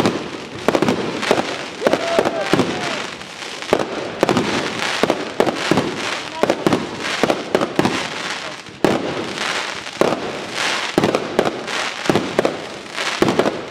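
Aerial fireworks shells bursting, many bangs in quick, irregular succession over a continuous crackle of exploding stars.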